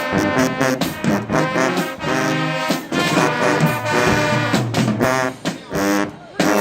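High school band playing a lively tune led by brass, with trombones and trumpets in short chords separated by brief breaks.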